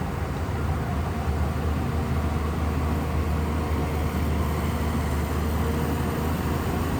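Shantui bulldozer's heavy diesel engine running steadily, a deep, even hum.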